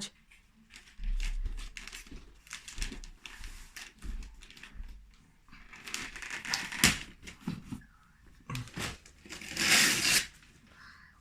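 Gift-wrapping paper being torn and crumpled in irregular short rips and rustles, with a longer, louder rip near the end.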